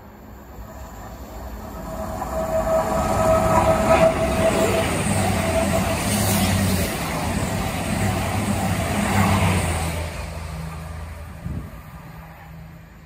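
Diesel passenger train running through the station at speed without stopping. Its noise builds over the first few seconds, stays loud for about seven seconds as the coaches go by, then fades. A steady high note sounds over the rushing noise early in the pass.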